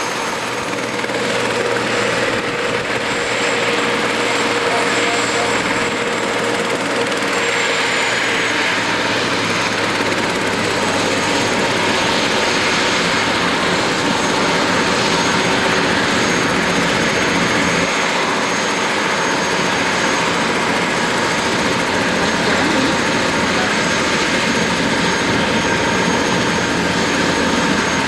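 Helicopter in flight heard from inside the cabin: a steady, loud wash of rotor and engine noise with a faint whine that drops slightly in pitch about nine seconds in.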